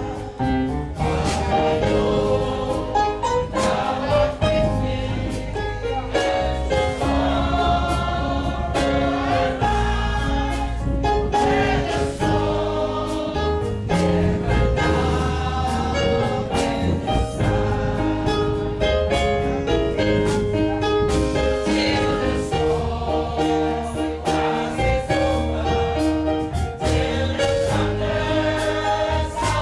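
A choir singing gospel music over instrumental accompaniment, with sustained bass and a regular percussive beat.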